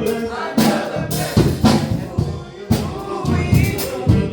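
Live gospel band music: drum kit strikes, sharp and loud, over sustained instrumental chords.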